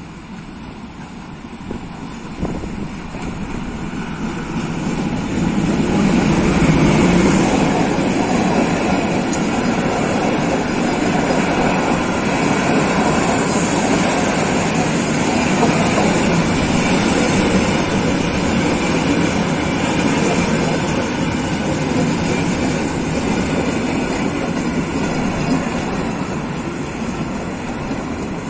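Freight train hauled by a diesel locomotive approaching and passing close by: the sound grows to a peak about six seconds in as the locomotive goes past, then a long string of flat wagons loaded with rails rolls by with steady wheel and rail noise.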